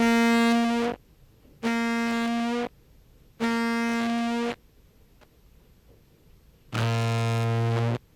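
Contrabass clarinet sample playing tongued notes through a compressor: three short notes on the same pitch, each about a second long with a sharp tongued attack, then after a pause a lower note about an octave down. The compression leaves the note attack unchanged.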